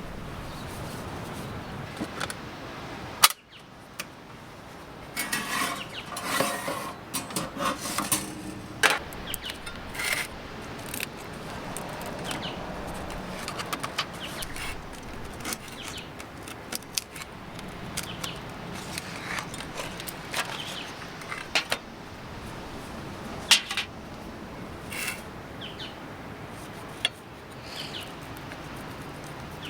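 Irregular clinking, rattling and knocking of gear being handled, over a steady background hiss, with one sharp knock about three seconds in.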